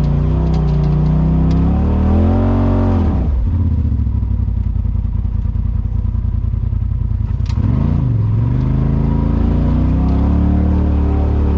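Engine of a Polaris RZR side-by-side driving on a trail: it revs up, the throttle is let off about three seconds in, and it runs low with a pulsing beat for several seconds. It picks up again at about eight seconds and holds steady.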